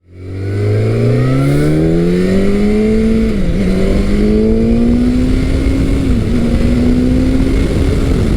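Big-bore motorcycle engine accelerating hard, its pitch climbing through the gears. There are quick upshifts about three and a half and six seconds in, each followed by the pitch rising again.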